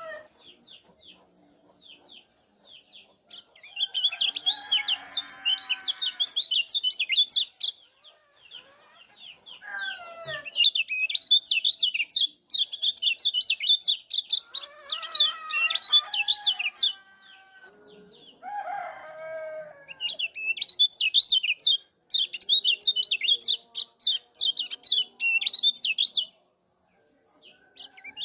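Kecial kuning white-eye giving its ciak call: fast, high chirps in runs of several seconds with short pauses between. Lower-pitched calls from other birds come in now and then.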